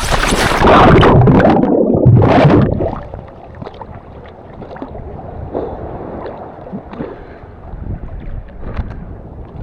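Sea water splashing and sloshing around a stand-up paddleboard: a loud rushing burst for about the first three seconds, then quieter lapping with small scattered splashes.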